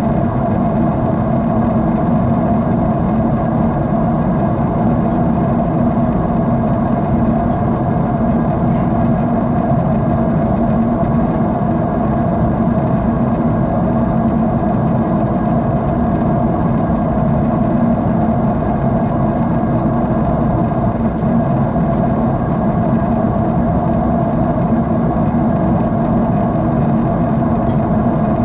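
Airliner jet engine noise in cruise heard inside the passenger cabin: a loud, steady, unchanging drone with a low hum running under it.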